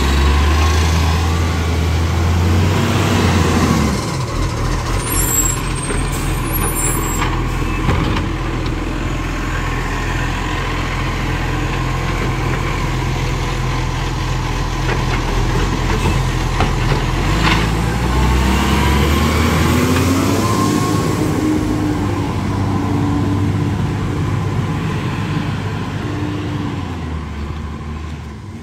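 Garbage truck's diesel engine running, its revs raised at the start, dropping to idle about four seconds in, then rising again about eighteen seconds in and falling back near the end, with a few brief sharp sounds in between.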